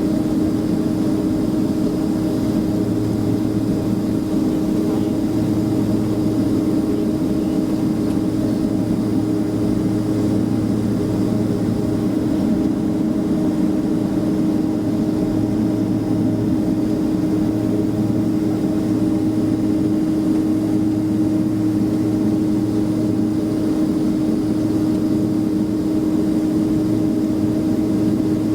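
Jet engines of a Boeing 767-300ER running steadily, heard from inside the passenger cabin as an even drone with a constant tone.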